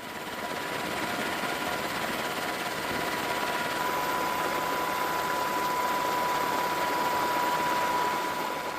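Steady engine or machinery noise, a hiss-like rumble with a thin steady whine above it, fading in at the start and fading out near the end.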